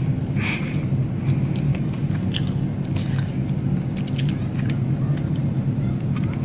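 Someone chewing a mouthful of a sugar-coated Korean cheese dog, with scattered small mouth clicks and smacks and a short breath about half a second in, over a steady low hum.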